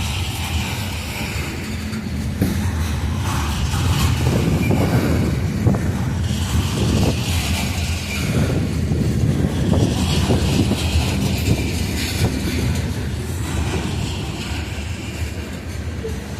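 Coal train cars rolling past at speed, steel wheels clacking and knocking over the rail joints above a steady low rumble.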